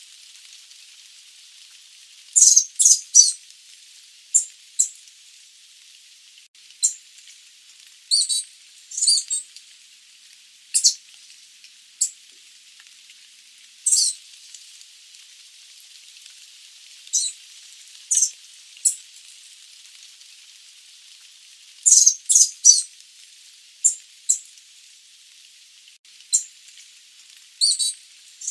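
Sooty babbler calling: short high-pitched notes, singly or in quick runs of two or three, at irregular gaps over a faint steady hiss.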